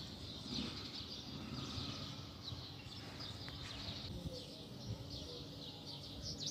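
Small birds chirping and twittering continuously, many short quick chirps, over a low background of outdoor noise.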